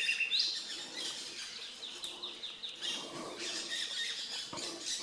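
Chorus of several songbird species calling and singing at once in tropical dry forest: overlapping chirps, whistles and quick trills, including a fast run of repeated notes about two seconds in.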